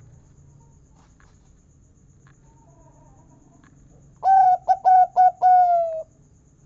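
Zebra dove (perkutut) cooing: a quick run of four short notes and then one longer, slightly falling note, the deep 'kung' of its song.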